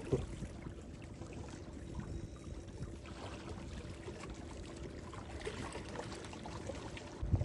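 Water trickling and splashing over a faint steady hum, with a knock at the start and a low thump near the end.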